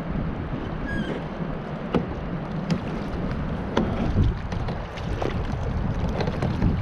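Sounds on board a fishing kayak: a steady wash of water and wind noise with scattered small knocks and clicks against the hull.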